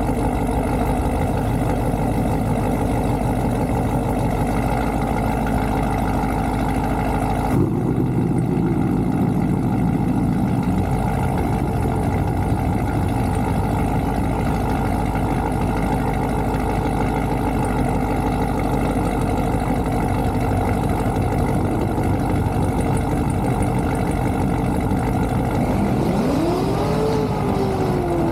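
Car engine running steadily, with the pitch rising and bending as it revs near the end.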